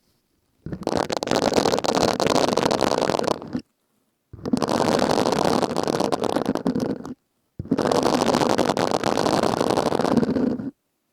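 Silicone scrubbing sponge rubbed and squeezed right at the microphone: a dense crackling rustle in three passes of about three seconds each, with dead silence between them.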